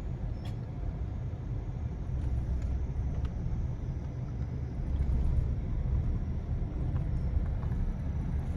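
Steady low road rumble of a vehicle driving.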